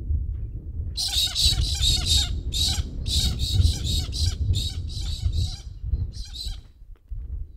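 A bird giving harsh, raucous calls in quick repeated strings, several runs one after another, which stop about a second before the end. A steady low rumble runs underneath.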